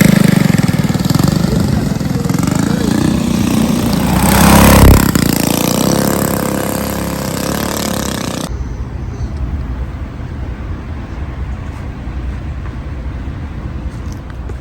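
Engines revving loudly amid noisy surroundings, swelling to a loud peak about five seconds in. Partway through the sound cuts abruptly to a duller, quieter low rumble.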